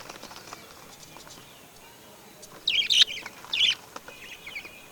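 Bird calling: three loud, short calls about two and a half to four seconds in, then softer chirps.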